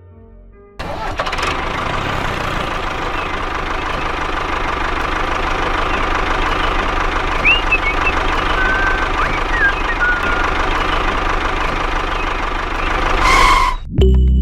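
Small electric motor and gears of a miniature toy machine running with a fast, steady rattle, switching on suddenly about a second in and cutting off shortly before the end.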